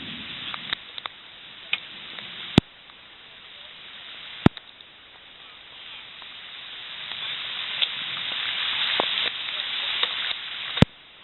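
Rain falling through rainforest, a steady hiss with scattered drips ticking close by, growing louder over the last few seconds. Three sharp clicks break in, near the start, in the middle and just before the end.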